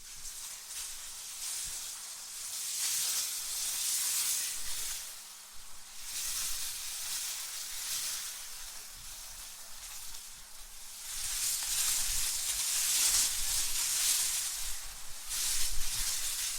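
Wind blowing in gusts: a hissing rush that swells and fades every few seconds, with a faint low rumble under the strongest gusts.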